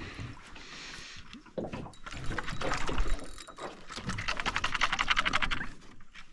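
Fishing reel being cranked in a rapid, even run of ticks while the angler works a snagged lure free, with water sounds around the boat.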